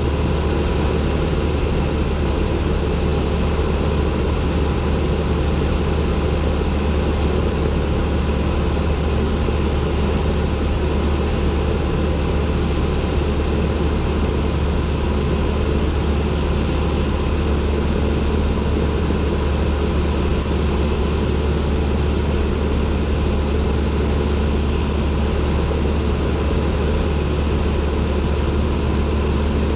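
Cessna 172N's four-cylinder Lycoming engine and propeller running steadily, heard from inside the cockpit as an even, unchanging drone with a strong low hum.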